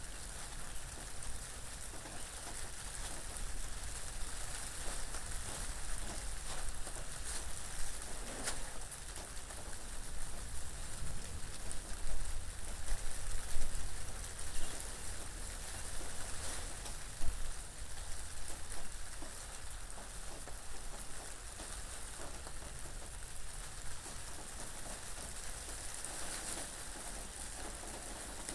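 Steady rain pattering, with a low wind rumble underneath. It swells louder for a few seconds around the middle.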